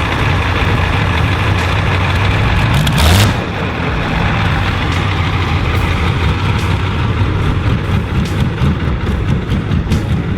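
Large V12 engine of a Volvo BM 470 Bison tractor running. It revs up to a loud peak about three seconds in, then settles to a lower, uneven throbbing.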